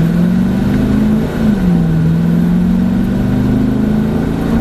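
Dodge Challenger engine pulling away under moderate throttle, its pitch climbing, dropping sharply about a second in as the automatic transmission upshifts, then climbing slowly again.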